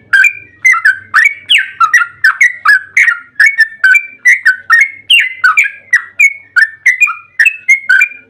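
Yellow-vented bulbul (trucukan) singing a long, unbroken run of short loud notes, about three a second, many dropping in pitch.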